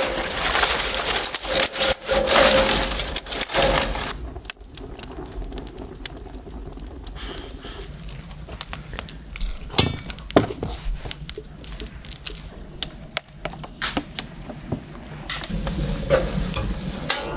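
Food sizzling as it fries, loudest for the first four seconds, then quieter with scattered clicks and knocks.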